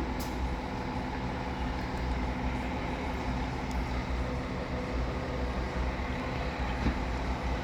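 Scania K500C double-decker coach running, a steady low engine hum with droning tones over it and a few faint ticks.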